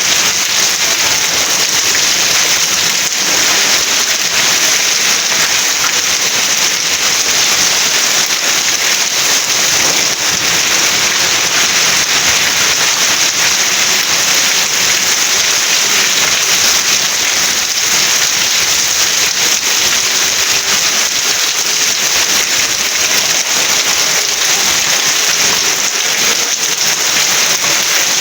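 Steady, heavy rain falling, a dense even hiss with fine crackle of drops on a surface.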